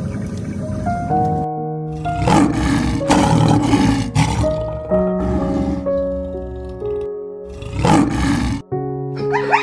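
An animal roaring in two loud bouts, a long one about two seconds in and a shorter one near the end, over background music of sustained notes.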